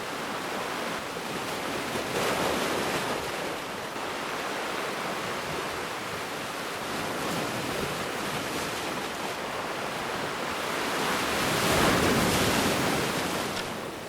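Ocean waves washing onto a beach: a steady surf hiss that swells as a wave comes in about two seconds in, and again, louder, near the end.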